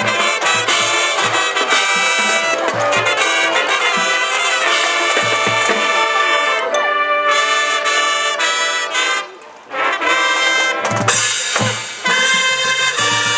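Marching band playing, led by trumpets and trombones over a steady low beat. The music drops away briefly about two-thirds of the way through, then comes back in.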